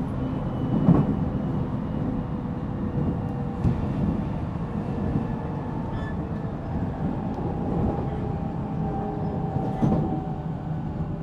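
Running noise inside a JR Central 313 series 0-subseries motor car (MoHa 313) on the move: a steady low rumble of wheels on rail, with a faint motor whine and a few sharp thumps, about three in all.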